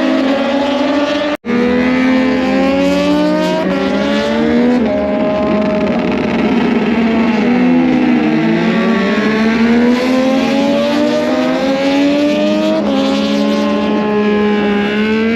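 Several racing motorcycles on the circuit, their engines screaming and overlapping, pitches climbing step by step as they go up through the gears, with one sweep down and back up about halfway through as they brake and accelerate out of a corner. The sound cuts out for an instant about a second and a half in.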